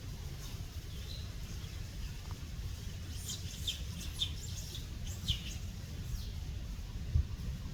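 Short, high-pitched animal chirps, several in quick succession in the middle, over a steady low rumble.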